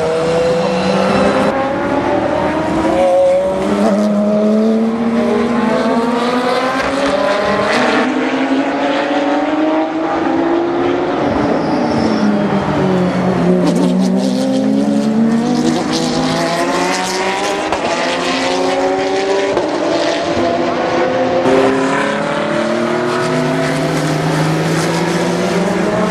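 GT3 racing car engines at full throttle on a race circuit, several cars overlapping. Their pitch climbs through the gears again and again, with a dip and climb back about halfway through as a car brakes, downshifts and accelerates away.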